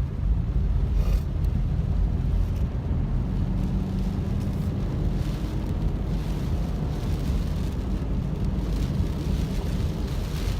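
Car driving along a flooded, rain-soaked road: a steady low rumble of engine and tyres with a hiss of water beneath the car, and a few brief louder swells of spray.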